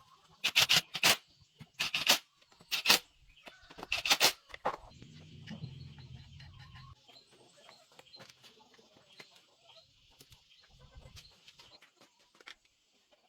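Chickens clucking and squawking in a run of short, loud calls over the first five seconds, then only scattered faint sounds. A faint steady high hiss runs underneath, and a low hum comes in briefly in the middle.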